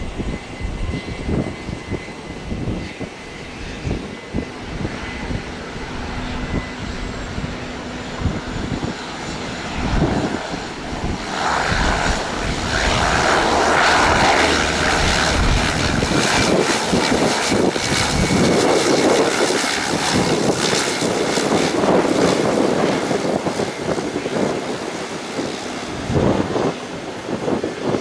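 Aeroplane engines that grow much louder about eleven seconds in and stay loud, as an aircraft passes close by, then ease off slightly near the end. Wind buffets the microphone at the start.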